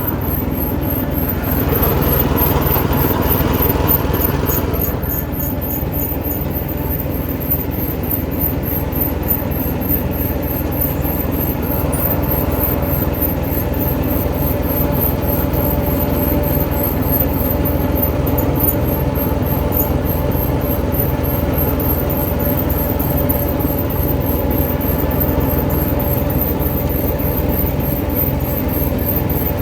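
The engine of a Japanese 6.5 hp 4x4 mini tractor running steadily, with a louder, rougher stretch in the first few seconds.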